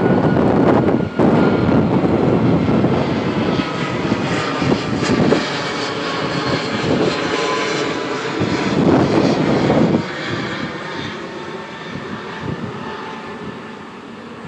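A large vehicle passing close by, loud for about ten seconds and then fading away over the last few seconds.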